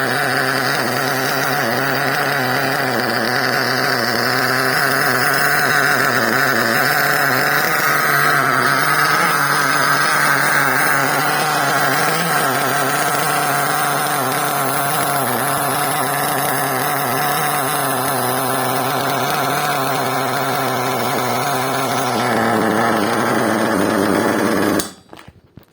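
4.6 cc two-stroke glow-plug nitro engine of a 1/10 monster truck running at a steady speed during break-in, then cutting out suddenly near the end.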